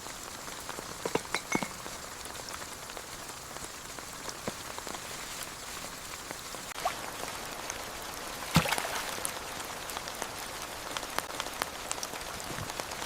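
Steady rain hissing, with scattered individual drops ticking on a hard surface and one louder drop about two-thirds of the way through.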